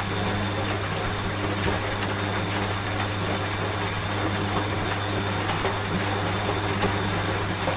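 Washing machine running with a steady low motor hum and a thin high whine, over steady rain.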